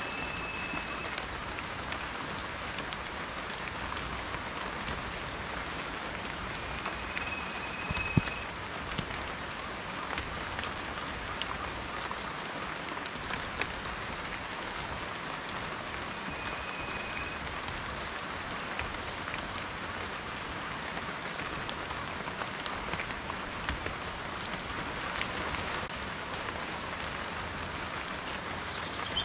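Steady rain falling, with individual drops ticking through it; one louder drop about eight seconds in. A faint, short, high whistle comes three times.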